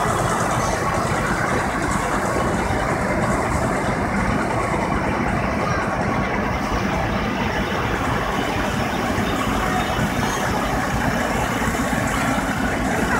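Diesel engines of large pivot-steer (articulated four-wheel-drive) tractors running steadily as they drive past.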